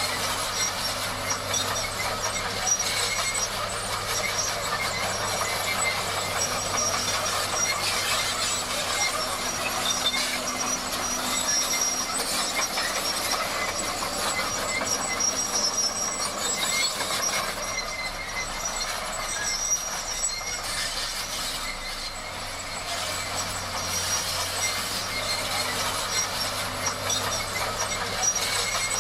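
Bulldozer working: steady machine noise with a high, thin metallic squeal.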